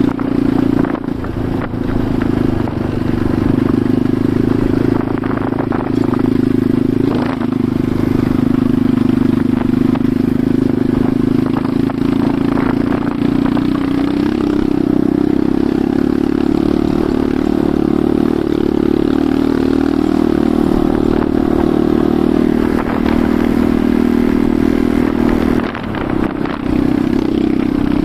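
Enduro motorcycle engine running steadily under way, with scattered knocks and rattles; the engine note drops briefly about a second and a half in and again near the end.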